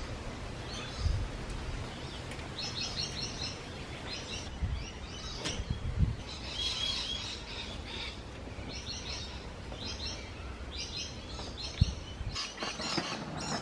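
Birds calling over and over in short, quick chirping phrases, over a low steady rumble. Two sharp knocks stand out, one about six seconds in and a louder one near the end.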